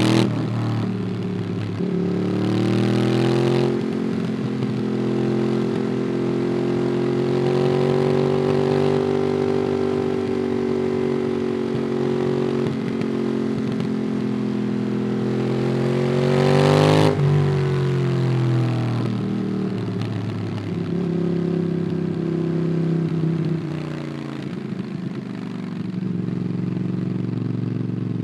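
Ducati Monster 821's L-twin engine through a QD Twin Gunshot exhaust, heard onboard while riding: it pulls steadily with its pitch slowly rising and easing, climbs again about two-thirds of the way through, then drops sharply and runs on at a lower pitch.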